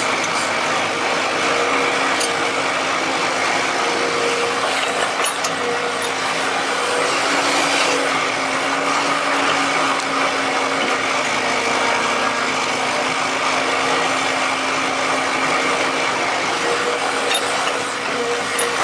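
Excavator running steadily, a constant mechanical hum with a few faint clicks.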